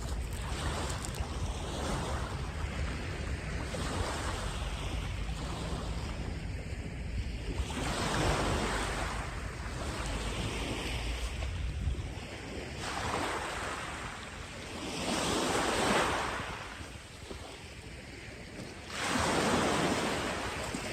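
Sea waves breaking and washing up a sandy beach, swelling and fading every few seconds, with wind rumbling on the microphone through the first half.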